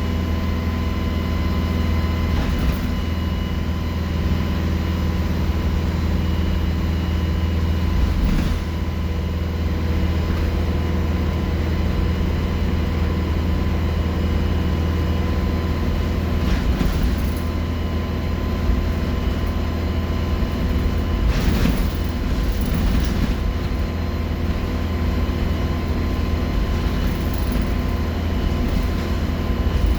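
Alexander Dennis Enviro 200 bus's diesel engine running under way. A deep engine drone is overlaid by a steady high turbo whistle, with a few short surges of noise.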